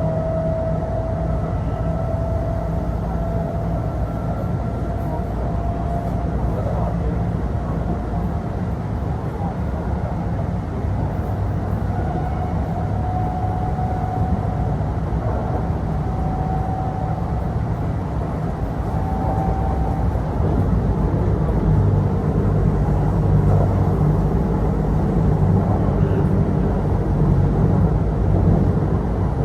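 Running sound inside a Kintetsu electric train: a steady rumble of wheels on rail with a thin whine that slowly climbs in pitch. The rumble grows louder about two thirds of the way through.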